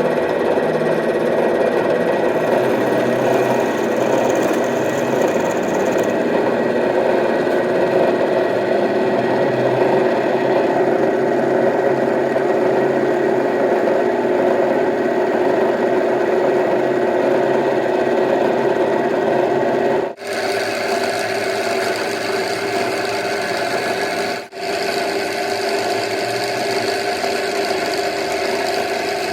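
Workshop machinery running steadily with a dense mechanical hum, cutting out briefly twice late on.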